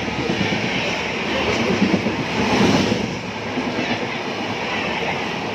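Passenger train in motion, heard from inside the coach: the steady running noise of the carriage on the track, swelling a little in the middle.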